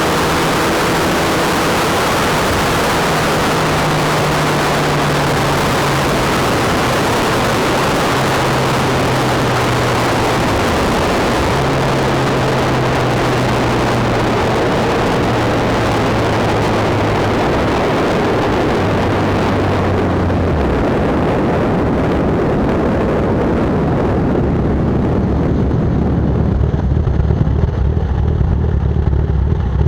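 Wind rushing over the microphone of a moving motorcycle, with the Kawasaki Z1000's inline-four engine note dropping in pitch in several steps as the bike slows. About two-thirds of the way through the wind noise fades, leaving the engine running at a low, steady note.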